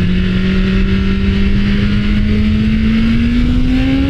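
BMW S1000RR's inline-four engine pulling in gear, its note rising slowly and smoothly as the bike gains speed, under a steady rush of air and road noise.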